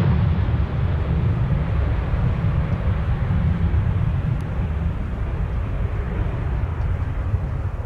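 Jet airliner's engines rumbling as it moves away, the sound slowly dying down, with wind buffeting the microphone.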